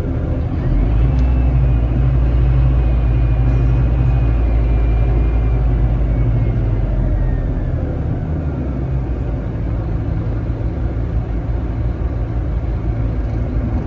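Scania K310IB bus's diesel engine running under way, a steady low rumble with a thin high whine that rises about a second in and slides down and fades away by about seven seconds. The sound eases a little after that.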